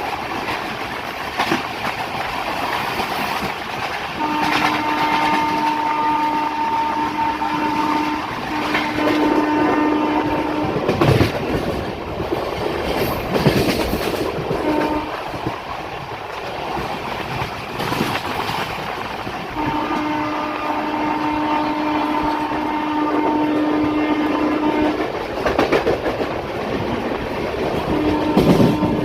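A train's horn sounding several long, steady blasts over the rumble of the train, with the clicking and knocking of wheels running over rail joints.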